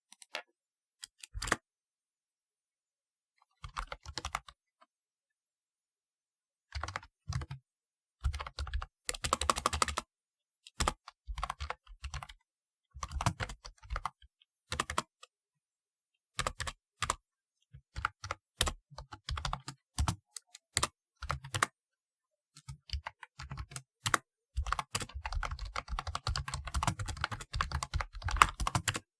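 Typing on a typewriter-style keyboard: a few scattered keystrokes, then short bursts of key clicks with pauses between them, running into steady, fast typing for the last few seconds.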